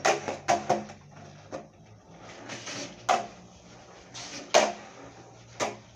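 Skateboard clacking and knocking on pavement as tricks are popped and landed: about seven sharp hits at irregular intervals, over a low steady hum.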